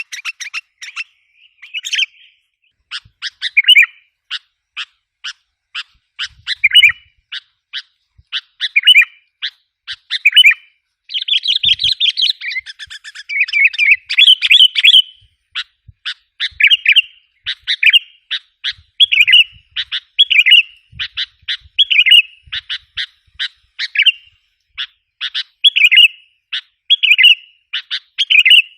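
Sooty-headed bulbul (kutilang) calling, used as a lure: quick runs of sharp chips broken by short burry notes every second or two, thickening into dense chattering about twelve seconds in.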